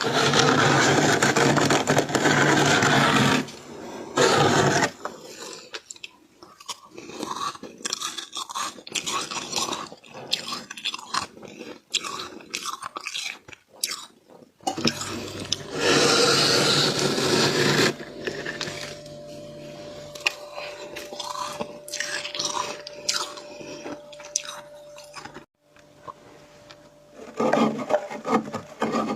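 Flaky frost being scraped up and chewed with loud crunching. There are long, dense stretches of crunching near the start and again in the middle, with many short, separate crunches of chewing between them.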